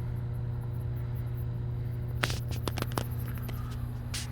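A steady low hum, with a short run of sharp clicks and rattles about two seconds in and one more click near the end.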